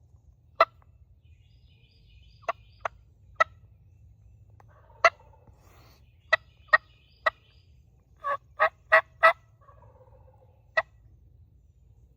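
Wild turkey clucks, sharp single notes a second or so apart, then a quick run of four yelps about eight seconds in and one more cluck near the end.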